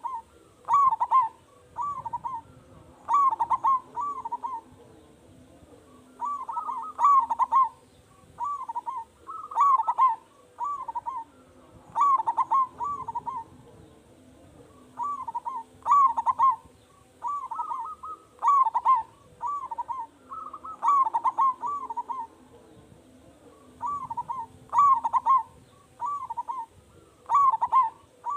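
Zebra dove (perkutut) cooing in full song: loud, short phrases of rolling, bubbling coo notes, one after another every second or two.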